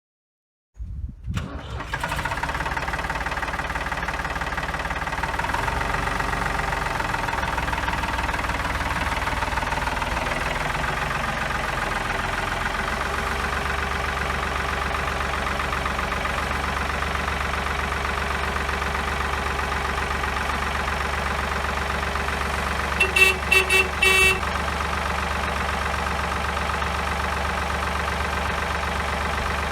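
1980 Ford 4100 tractor engine starting and settling into a steady idle. About three quarters of the way through there is a short run of quick horn beeps.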